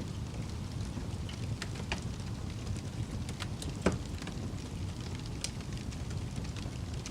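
Campfire burning: a steady low rumble with scattered crackles and pops, the loudest pop a little past halfway.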